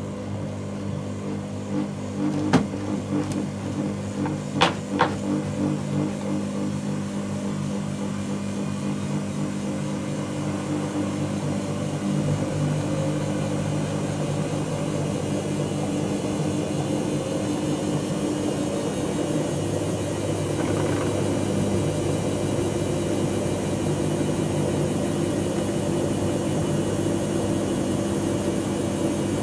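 Dyson Contrarotator CR01 washing machine running mid-cycle with a steady motor hum. A few sharp knocks come in the first few seconds, and the hum gets louder about 12 seconds in.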